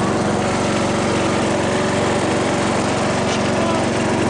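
Briggs & Stratton engine of a 12-horsepower Craftsman lawn tractor running steadily at an even speed.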